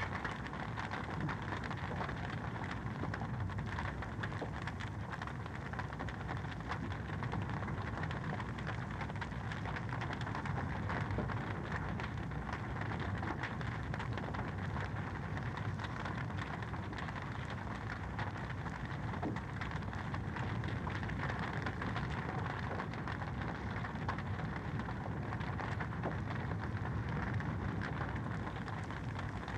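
Wood fire crackling in a fireplace: a steady hiss full of many small, quick pops.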